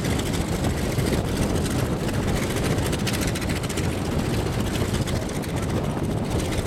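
Douglas DC-3's radial piston engines running with propellers turning: a loud, steady drone with no change in speed.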